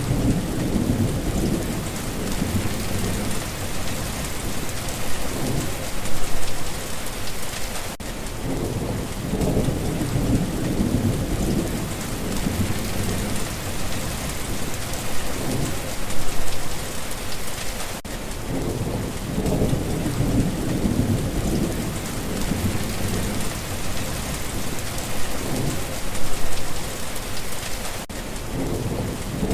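Steady heavy rain with low rolling thunder that swells and fades several times, loudest about every ten seconds.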